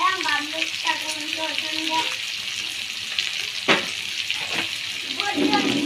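Pork pieces sizzling steadily in a hot wok, with one sharp knock a little after halfway through.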